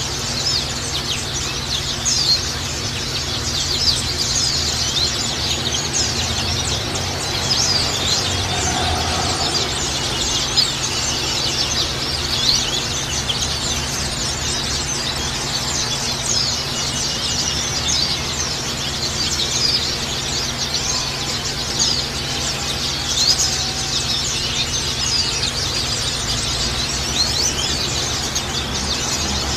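Dense chorus of many white-eyes (pleci) chirping and twittering, with rapid high, thin calls overlapping without a break. A low steady hum runs underneath.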